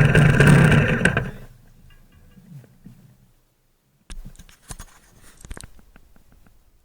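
Motorcycle engine running loudly, dying away about a second and a half in. Then mostly quiet, with a few faint knocks and clicks near the end.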